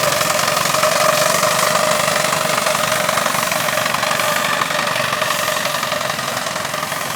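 Steam traction engines running: a steady hiss with a constant tone held through it, easing off slightly near the end.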